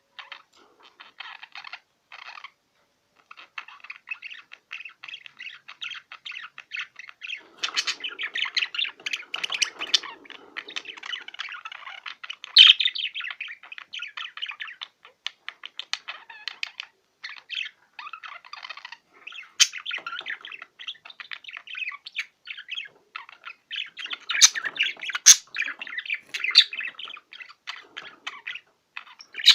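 Male budgerigar warbling: a long run of rapid, broken chatter with short pauses and a few sharp, shrill calls in the second half. This is a male's courtship warble, sung to rouse a female and urge her toward mating.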